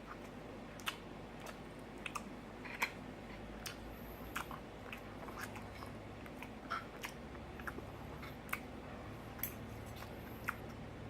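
A person chewing food close to the microphone, with soft, irregular mouth clicks every second or so.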